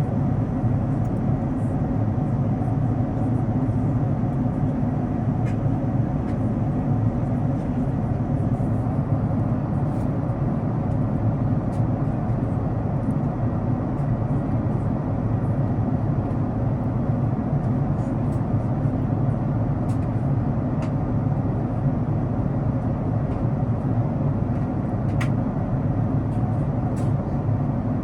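Steady low rumble of a Boeing 787-9 airliner cabin: engine and airflow noise, with a few faint clicks.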